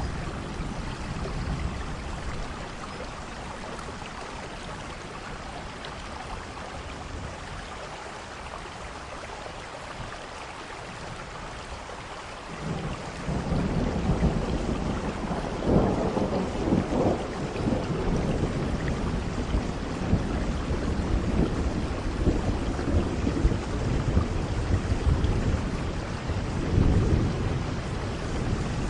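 Steady rain falling, with a long roll of thunder that sets in about halfway through and rumbles on to the end, loudest a few seconds after it starts and again near the end.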